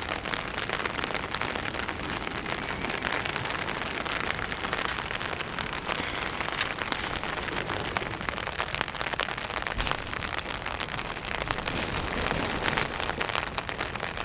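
Rain falling steadily, a dense patter of many small drop ticks, growing a little heavier near the end.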